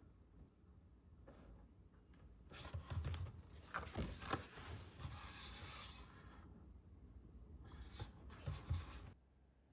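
Soft rustling and a few light knocks of things being handled, in two stretches, cutting off abruptly near the end.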